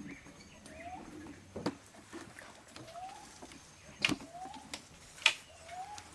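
A bird giving a short, rising call four times, about a second or two apart, with three sharp knocks in between; the last knock is the loudest sound.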